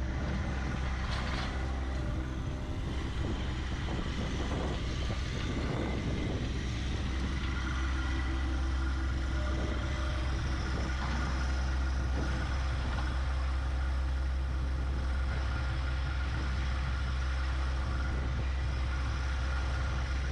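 Compact tractor's three-cylinder diesel engine running steadily, with some clatter in the first few seconds.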